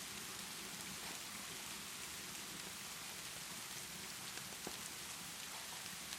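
Steady rainfall, an even hiss, with a few sharp crackles from a fireplace in the second half.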